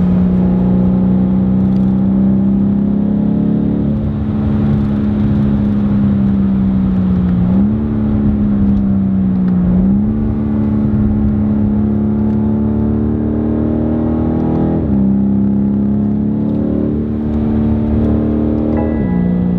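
BMW M850i's 4.4-litre twin-turbo V8 running under way, heard from inside the cabin. The engine note holds steady or climbs slowly, with several abrupt jumps in pitch as the automatic gearbox changes gear.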